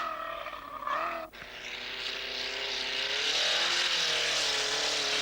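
Rally car engine running hard at high revs on a snowy stage, its pitch rising and falling with gear changes. It cuts off sharply about a second in, then comes back with a growing hiss as the car draws near.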